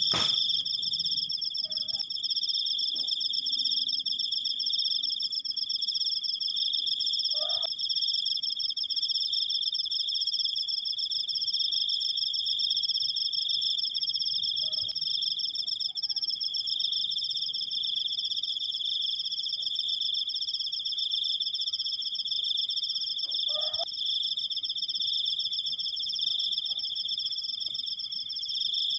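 Crickets trilling in a long, unbroken, high-pitched 'krik' with two steady pitches. A few brief, lower calls come through about a quarter and three quarters of the way in.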